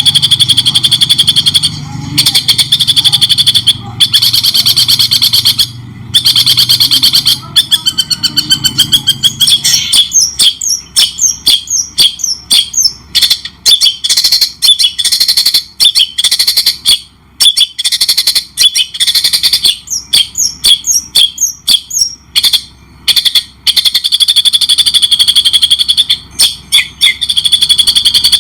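Long-tailed shrike (cendet) singing: a dense, harsh chattering run of notes for about ten seconds, then quick sweeping whistled notes in rapid phrases broken by brief pauses.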